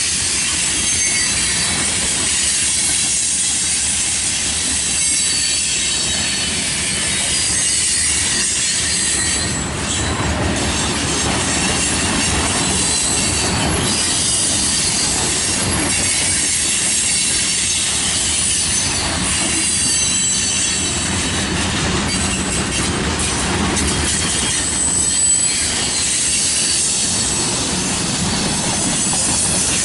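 Covered hopper cars of a freight train rolling steadily past at close range: a low rumble of wheels on rail under a constant high-pitched wheel squeal, with a few clacks over rail joints.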